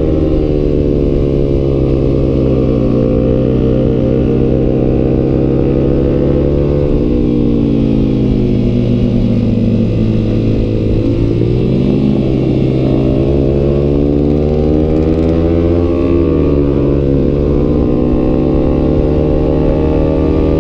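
Yamaha YZF-R15's single-cylinder engine through a Tridente F21 full-system aftermarket exhaust, heard from the rider's seat while riding. The pitch is steady at first, falls from about a third of the way in as the bike eases off, climbs again a little past halfway, and shifts briefly once more near three-quarters through.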